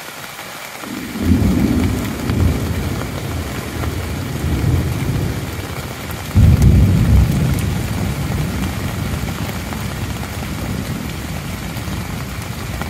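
Rain falling steadily on a tent, with a long roll of thunder building about a second in and a louder, sudden crack of thunder about six and a half seconds in, rumbling away slowly.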